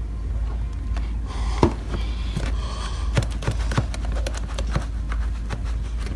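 Homemade slime being kneaded and stretched by hand, giving a run of small irregular sticky clicks and pops over a steady low hum.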